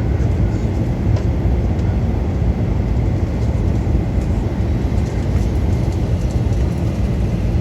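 Steady low rumble of cabin noise inside a Boeing 737 airliner in flight, the mix of jet engine and airflow noise.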